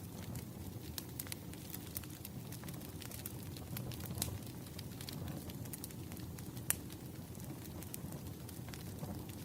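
Fireplace fire burning with a steady low rumble and irregular sharp crackles and pops, one louder pop about two-thirds of the way through.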